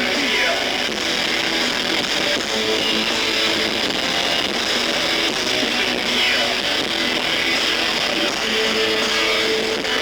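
A rock band playing live: electric guitar chords with bass, a steady continuous wall of sound. The low end is thin, as on an old VHS concert tape.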